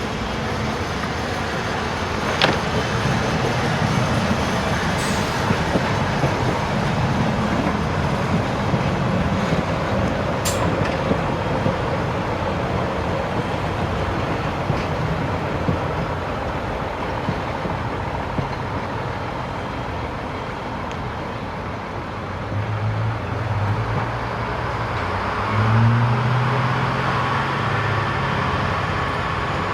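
A train moving, a steady rumble with a few sharp metallic clicks. From about three-quarters of the way through, a low engine hum rises and swells.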